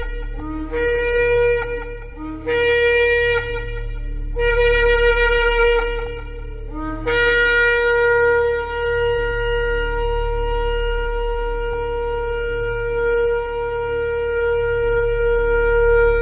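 Shofar blown in three short blasts, each stepping up from a lower note to a higher held note. Then one long blast is held steady for about nine seconds.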